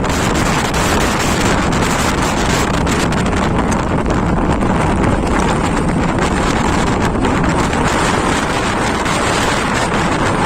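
Strong blizzard wind buffeting the microphone: a loud, unbroken rush of noise with constant rapid gusting.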